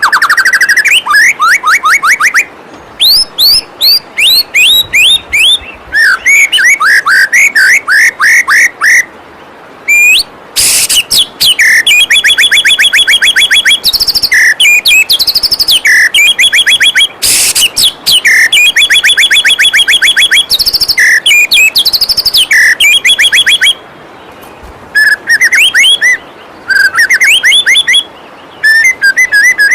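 White-rumped shama (murai batu) singing loudly in fast runs of repeated whistled notes and rattling trills, with two short harsh rasping notes. The steady rush of a waterfall runs beneath.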